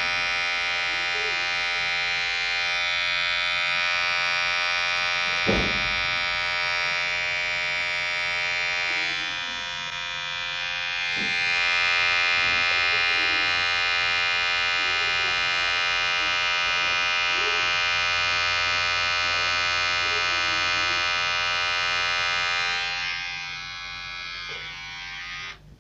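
Electric hair clipper running with a steady buzz. It dips briefly about ten seconds in and fades away near the end.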